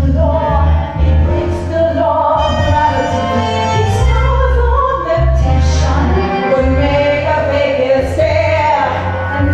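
A stage-musical number: women's voices singing over an accompaniment with a heavy, pulsing bass, in a large hall.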